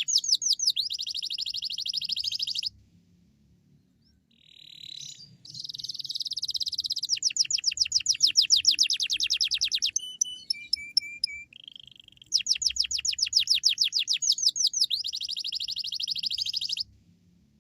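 Domestic canary singing in full voice: three song phrases of fast trills of repeated high chirps and buzzy rolls, with short pauses between them.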